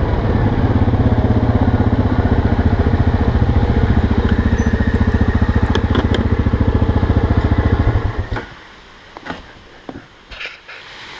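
ATV engine idling with a steady, even pulse, then switched off about eight seconds in. A few light knocks follow in the quiet.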